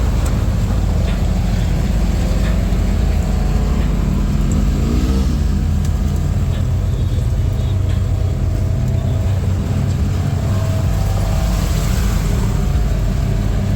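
Four-wheeler (ATV) engine running steadily while riding.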